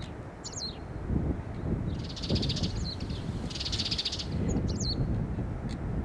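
Small birds calling: a few short chirps that slide down in pitch, and two buzzy rattles of about a second each near the middle, over a low wind rumble.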